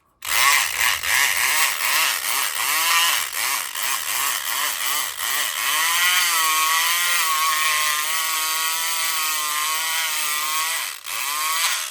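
SouthOrd E500XT 4.5-volt electric pick gun running in a padlock's keyway, its motor buzzing and the vibrating pick rattling against the pins. The motor pitch wavers up and down quickly for the first half, then holds steadier. It dips briefly near the end and stops.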